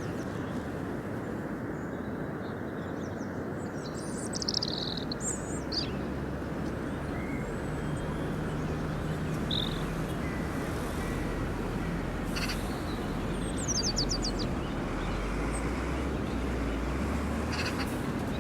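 Small birds chirping now and then, with a quick run of chirps about two-thirds of the way through, over a steady rumbling outdoor background noise.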